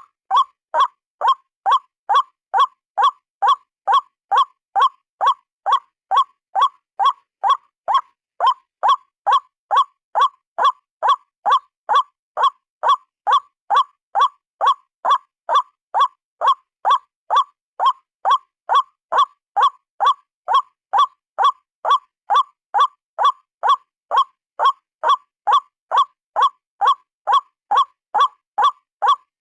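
A single white-breasted waterhen calling, one short note repeated steadily at about two a second.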